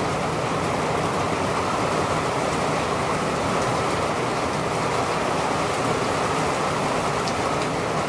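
Steady rain falling, an even, unbroken rush.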